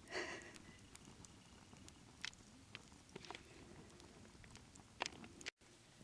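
Near quiet, broken by a handful of faint, sharp clicks and small crackles spread over the few seconds.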